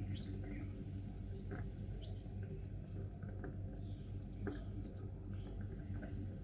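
Sparrows chirping: short, high chirps that drop in pitch, about one or two a second, over a steady low hum.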